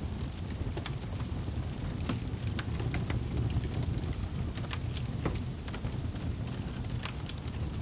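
Wood fire crackling in a fireplace: irregular sharp pops and snaps of burning firewood over a steady low rumble of the flames.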